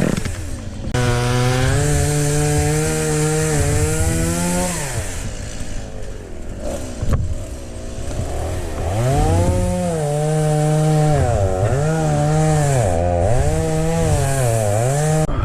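Chainsaw running at high revs while cutting into ash wood, its pitch dipping and recovering several times as the chain bites. In the middle it falls back quieter for a few seconds before revving up again.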